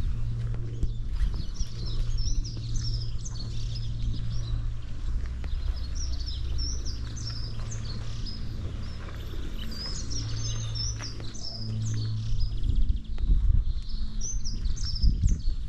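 Small songbirds chirping and singing, with short high calls repeating throughout, over a steady low rumble.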